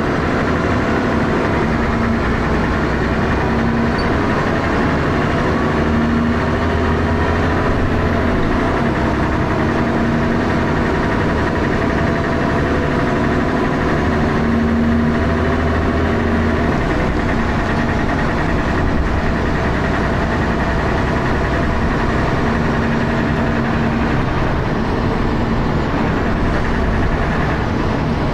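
Dennis Arrow double-decker bus engine running with heavy thrash, its pitch shifting a few times as it works. This is a bus with a loud knocking noise.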